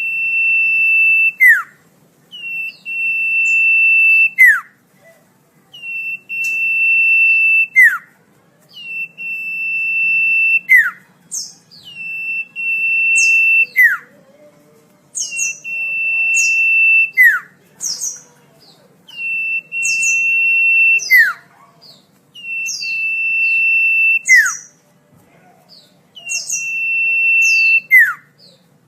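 Common iora (cipoh) singing, repeating a phrase of a long level whistle that ends in a quick falling note, about once every three seconds, with short higher chirps between the phrases.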